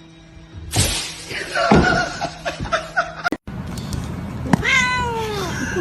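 A cat meowing: short cries amid noise early on, then one long meow near the end that falls in pitch.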